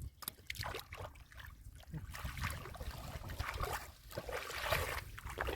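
Muddy shallow water splashing and sloshing irregularly as hands grope and dig through it for fish, busier from about two seconds in.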